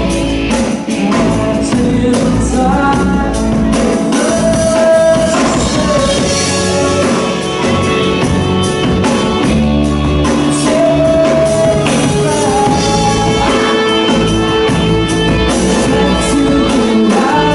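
Live band playing a song with a singer, drums and keyboards, loud and unbroken throughout.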